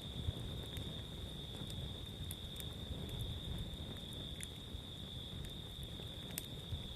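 Campfire burning with a low rumble and a few sharp crackling pops, over a steady high-pitched cricket trill.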